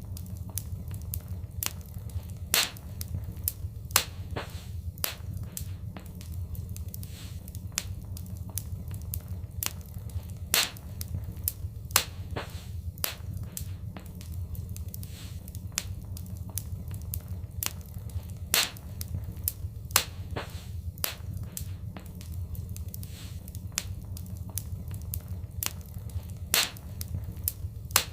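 Fireplace fire crackling, with irregular sharp pops, a few of them louder, over a steady low rumble.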